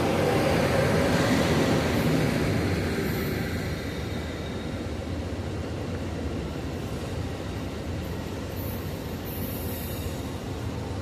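A train moving on the rails. Its running noise is loudest over the first few seconds, then eases to a steadier, lower level.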